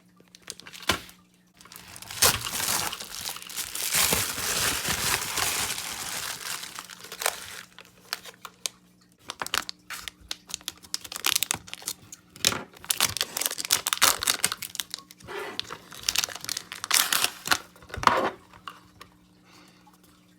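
Packaging being handled and opened: a long spell of rustling and crinkling in the first several seconds, then a run of sharp crackles and crinkles, with a faint steady hum underneath.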